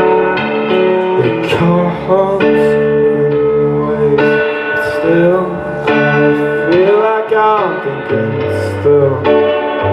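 Live band music: a guitar-led passage with sustained chords and a few notes bending up and down in pitch.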